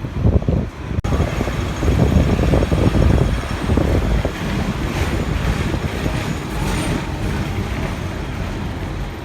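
Hong Kong double-decker tram running along its rails, a steady low rumble, with wind buffeting the microphone.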